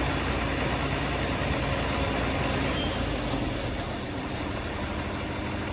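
John Deere 4230 tractor's six-cylinder diesel running steadily, driving a New Holland 355 hammermill feed mixer as it grinds ear corn: a dense, steady mechanical din. The deepest rumble eases slightly about four seconds in.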